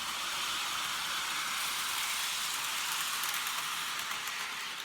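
HO-scale model train running along the track under power, a steady whirring hiss of its small electric motor and wheels on the rails, easing off a little near the end.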